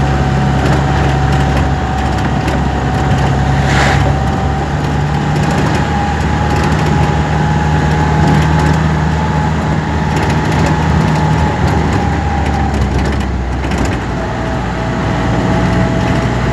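A road vehicle running steadily, with a steady hum and a constant crackling rattle.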